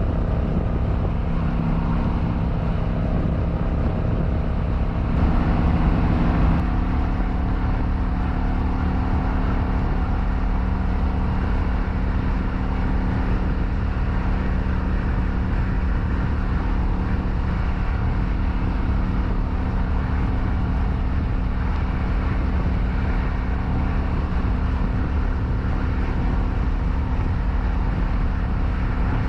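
Kawasaki Vulcan 900's V-twin engine running steadily on the move under a heavy low rumble of wind on the mic. About five seconds in it briefly gets louder and its pitch shifts, then it settles again.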